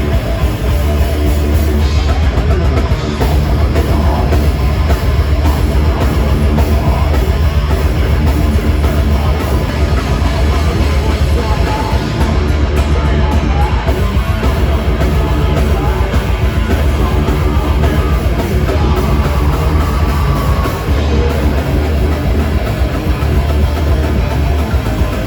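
Rock band playing loud heavy metal live, with drum kit and guitar. The low end drops back briefly twice.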